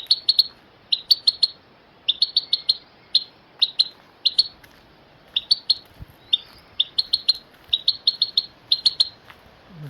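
A bird chirping: quick runs of two to five short, high chirps, repeated about once a second, with a few short pauses.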